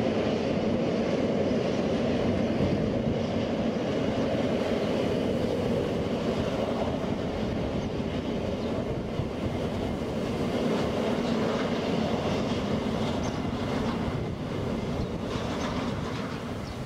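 A freight train running past on the rails, with a steady rolling rumble of wheels and a low hum throughout.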